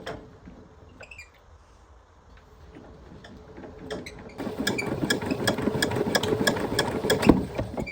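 An old motorbike engine being cranked to start: after a few quiet seconds of handling, it turns over with a rapid rhythmic chugging for about three and a half seconds, with one sharp knock near the end, but does not catch. The engine is stiff to turn and will not start after long disuse.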